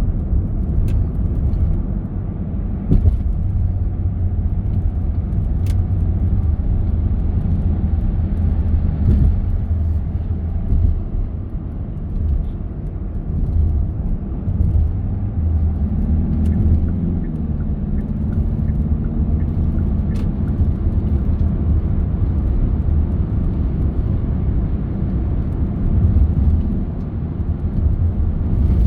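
Car driving along the road: a steady low rumble of engine and tyres, with a few faint clicks and a wavering hum about halfway through.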